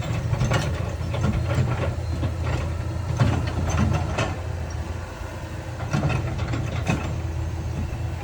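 Diesel engine of heavy earthmoving machinery running steadily, with scattered sharp clanks and knocks of metal and rock over it.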